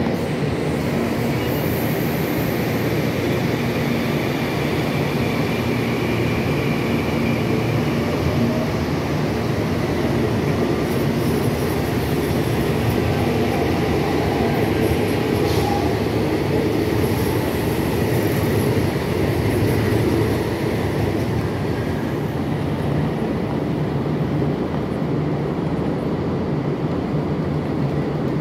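Electric commuter trains running through a station: a steady rumble of wheels on rail and traction motors, with a thin high-pitched wheel squeal coming and going in the middle.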